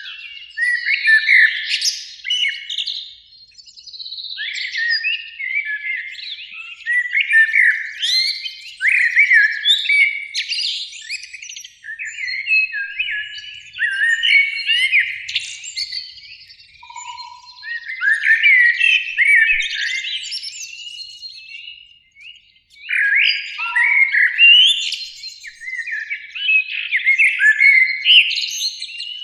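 Eurasian blackbirds singing, dense overlapping phrases of whistled and twittering notes with brief pauses between phrases.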